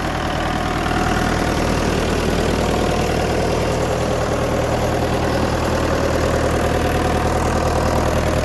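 1959 Fordson Power Major's four-cylinder engine idling steadily, warming up shortly after a cold start; its engine has been reconditioned and runs smoothly.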